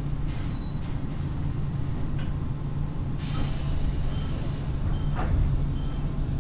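Nankai electric train braking to a stop at a station, with a steady low hum from the running train. About halfway through, a hiss of air lasts a second and a half, then a short knock follows.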